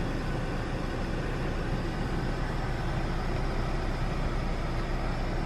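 Steady, even hum inside the cabin of a 2017 Jaguar F-PACE, with the engine idling.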